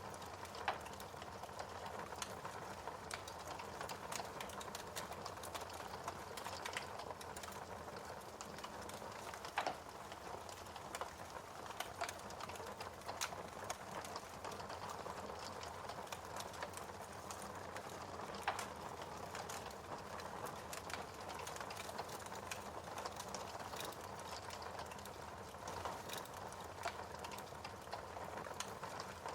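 Wood fire crackling: a steady soft hiss with frequent small snaps and a few louder pops.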